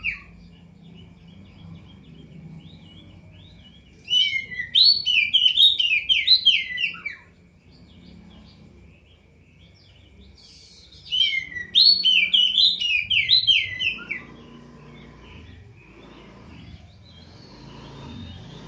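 A burung poci songbird singing: two loud bursts of fast, twittering warbles about seven seconds apart, with soft chirps between them.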